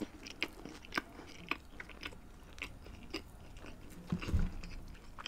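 Close-miked chewing of a bite of crispy chicken burger, with wet mouth clicks about twice a second. A low thump about four seconds in as the burger is set down on the wooden board.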